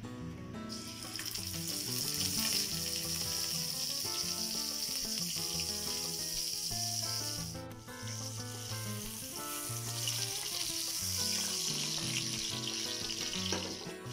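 Lamb kababs sizzling as they fry in hot oil in a karahi. The sizzle starts sharply about a second in and breaks off for a moment a little past halfway.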